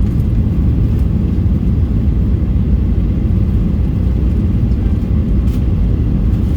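Steady low rumble of a Boeing 737-800 heard inside the passenger cabin: its CFM56-7B jet engines and the rush of air over the fuselage.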